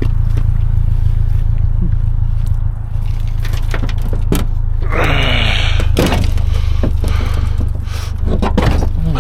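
Cast-iron engine block scraping and knocking as it is loaded into a truck bed, with one longer grinding scrape about five seconds in, over a steady low rumble.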